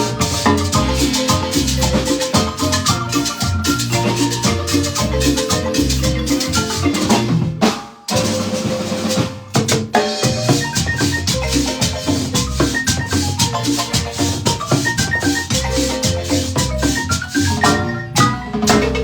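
Guatemalan marimba ensemble playing, with mallet notes over a steady pulse of bass notes and accompanying percussion. The music breaks off for an instant about eight seconds in, then carries on.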